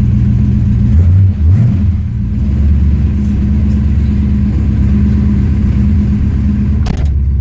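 416 cubic-inch LS3 V8 idling high through Borla Pro XS 3-inch mufflers, a fast idle on a dead-cold engine. Its note shifts briefly about a second in. A single thump near the end, likely the car door shutting.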